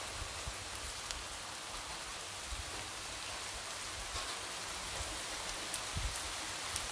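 Light rain falling steadily, a soft even hiss with scattered drops tapping against a window.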